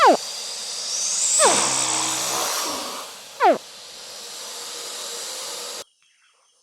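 Crocodile calls: three short, sharp chirps, each falling steeply in pitch, over a steady hiss. The middle call, about a second and a half in, is longer and has a low note. The hiss cuts off suddenly near the end.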